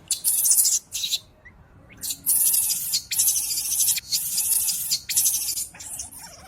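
Macaque screaming in a run of about seven harsh, high-pitched shrieks, each about half a second long, with short breaks between them.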